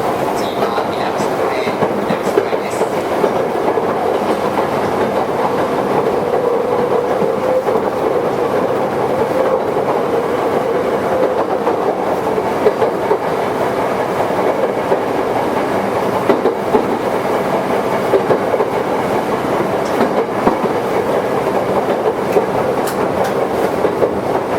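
Toyohashi Railway 1800 series electric train (ex-Tokyu) running between stations, heard from inside the car: a steady running noise with a hum from the motors and gears and occasional clicks of the wheels over rail joints.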